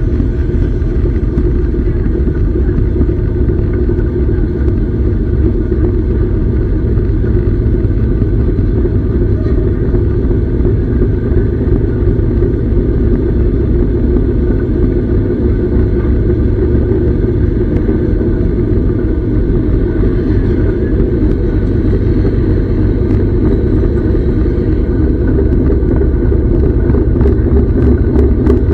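Steady rumble of a train running along the track, heard from on board.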